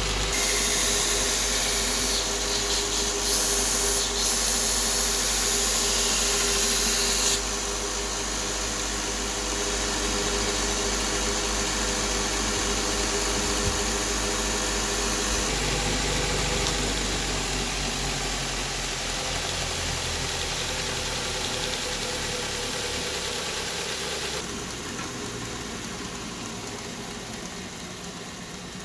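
Electric bench-grinder motor driving a sanding belt on a homemade belt-grinder attachment, with a loud grinding hiss for the first seven seconds or so that stops suddenly. The motor then runs on and fades slowly over the last few seconds.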